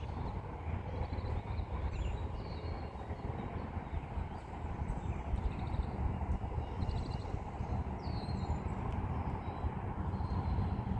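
Wild birds calling outdoors: scattered short, high chirps and brief trills, several times, over a steady low rumble.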